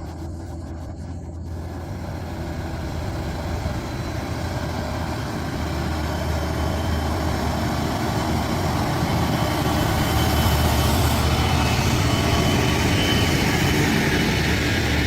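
Heavy truck engine running, growing steadily louder as the truck approaches, over a steady low hum.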